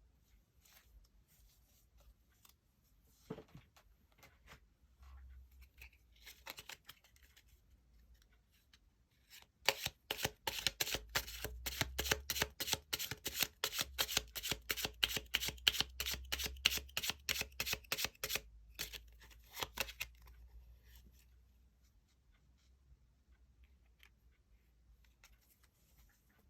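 Tarot cards being shuffled by hand: a rapid run of crisp card flicks, about five a second, for roughly ten seconds in the middle, with softer, scattered card handling before and after.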